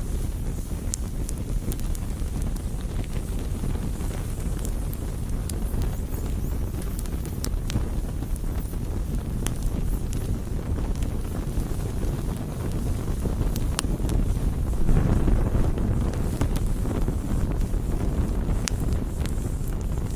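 Campfire burning: scattered sharp crackles and pops of the wood over a steady low rumble, which swells about fifteen seconds in.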